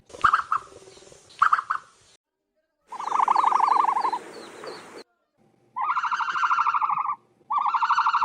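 Ostrich calls in a run of spliced clips: two short calls, then three longer buzzy calls of about a second each, each made of rapid pulses.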